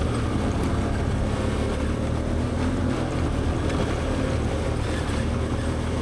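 Can-Am Outlander 850 XT ATV's V-twin engine running steadily as it pulls up a trail climb.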